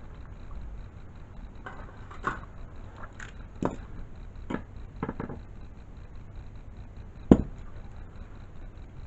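Scattered light clicks and knocks of small hard objects being handled, about seven in all, with one sharper knock near the end.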